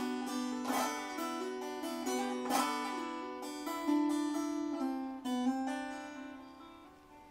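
Solo plucked string instrument playing a melody, with sharp strummed chords every second or two, its notes dying away near the end.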